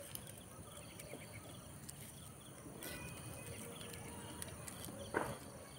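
Quiet outdoor background with faint bird calls, and one short, louder animal call near the end.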